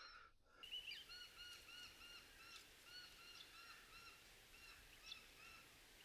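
A bird calling faintly in the background, a rapid run of short, nasal, arched notes about four a second that stops shortly before the end.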